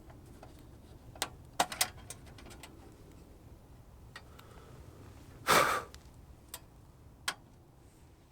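A few light clicks and knocks, then one short puff of breath about five and a half seconds in, blowing out a candle lantern's flame.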